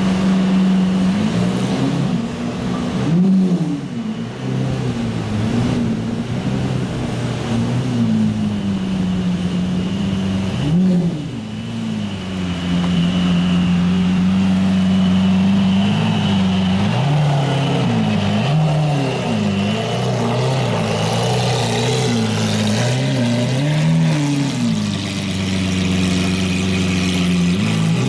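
Lamborghini Aventador's V12 idling with a steady drone, blipped repeatedly: short revs that rise and fall a few seconds in and again around ten seconds, then a close run of quick revs through the second half.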